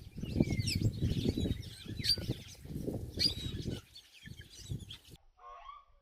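Birds chirping: many short, high, sliding chirps over a low rumbling rustle, which cuts off about five seconds in. A fainter, lower call follows near the end.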